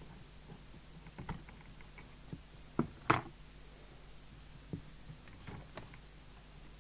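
Small clicks and taps of parts and tools being handled while a CB radio is reassembled, with two sharper knocks close together about three seconds in. A faint steady hum runs underneath.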